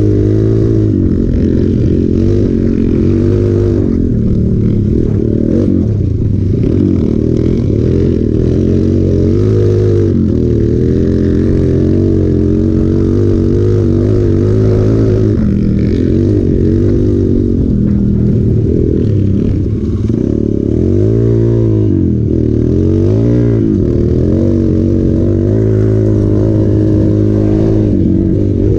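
Hero Impulse's 150 cc single-cylinder motorcycle engine running under constantly changing throttle, its pitch rising and falling again and again as it is revved and let off while riding off-road.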